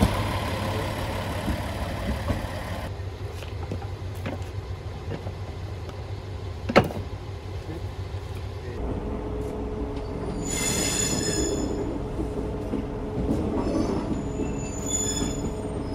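Rail yard and train running sounds: a single sharp metallic clank about seven seconds in, then the steady running of a train heard from the driving cab, with two short high-pitched wheel squeals near the end.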